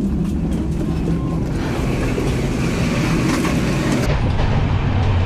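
Tejas Express train running: a steady rumble with a rushing noise over it.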